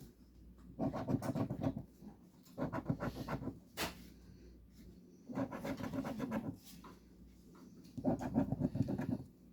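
Scratching the coating off a scratch-off lottery ticket, in four bursts of quick rasping strokes about a second each, with a single sharp click about four seconds in.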